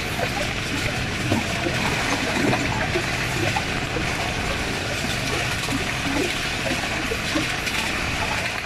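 Passenger train running fast, heard from an open window of a coach: a steady rush of wind and wheel-and-rail noise, with scattered short squeaks and clanks.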